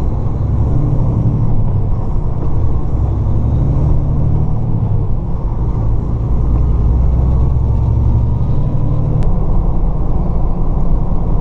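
Semi truck's diesel engine heard from inside the cab as the rig pulls away, a low steady drone whose pitch steps up and drops back several times as it works through the gears. One sharp click about nine seconds in.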